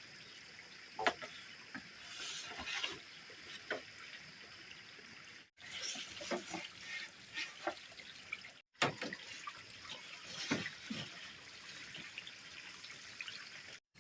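Water trickling and splashing, with scattered short knocks and splashes. The sound drops out briefly three times.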